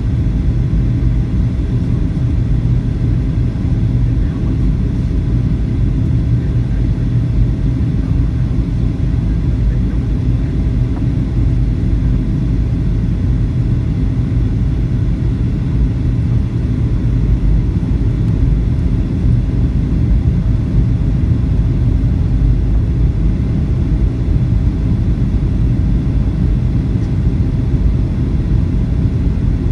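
Boeing 737-800 cabin noise: a steady, loud low rumble of engines and airflow heard from inside the passenger cabin, with a faint even hum on top.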